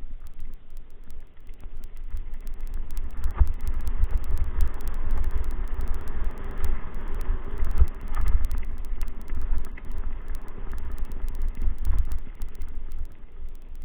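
Wind buffeting the microphone while on the move, a gusting low rumble with steady road noise under it.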